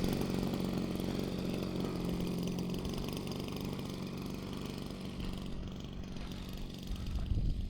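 Two-stroke G26 gas engine with an 18x8 propeller on a 104-inch Balsa USA Piper Cub RC plane, running steadily in flight and slowly fading as the plane moves away.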